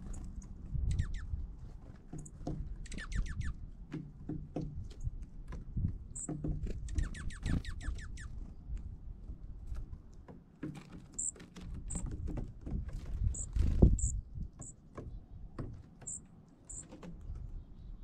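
Small songbirds calling: short, very high chip notes repeated throughout, and twice a quick rattling run of notes, over a low rumble with scattered taps.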